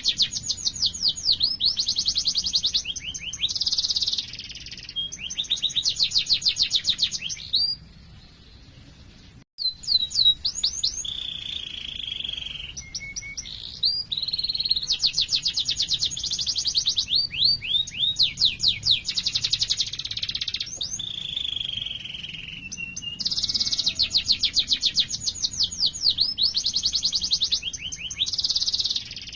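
Domestic canary singing a long song of fast, evenly repeated trills and rolls, with held rolling notes in between. It pauses briefly about eight seconds in, then carries on.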